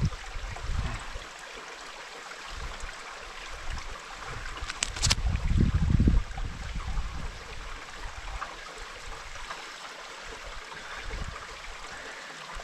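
Mountain stream running steadily, with low rumbling bumps on the microphone near the start and around five seconds in, and one sharp click just before the louder rumble.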